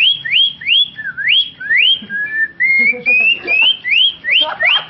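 A person whistling an imitation of a cucak ijo (greater green leafbird) song: a fast run of sharply rising whistled notes, with a slower stretch of gliding notes in the middle before the quick rising notes return.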